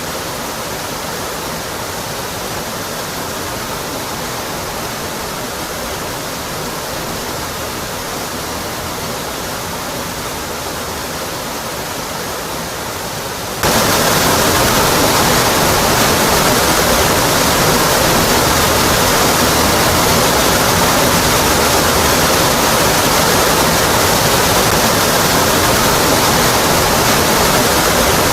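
Waterfall pouring onto rock, a steady, even rush of water. About halfway through it suddenly becomes louder and fuller and stays that way.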